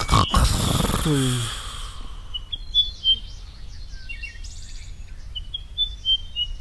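Birds chirping in short, high calls over a quiet background. They follow a loud rushing sound with a falling tone that dies away in the first two seconds.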